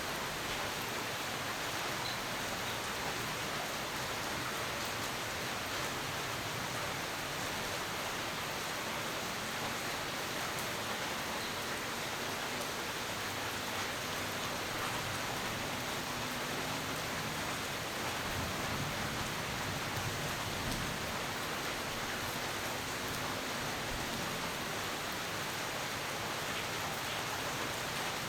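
Steady, even rainfall, a constant hiss of rain with no single loud event standing out.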